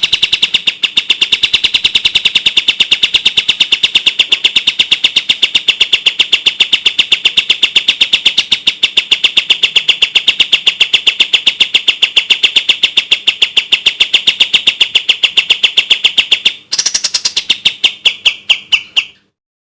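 White-shouldered triller (kapas tembak) song: a long, fast run of sharp, evenly repeated chirps, many to the second, with no pause. Near the end the run breaks briefly, a few more notes follow, and it stops.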